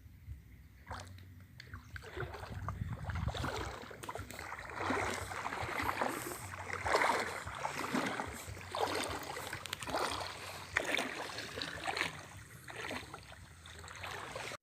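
Legs wading through deep floodwater, sloshing and splashing in a stride-by-stride rhythm of roughly one surge a second.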